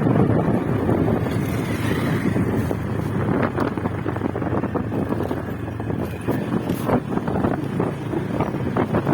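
Wind buffeting the microphone over the running motorcycle while riding, with scattered short knocks and rattles.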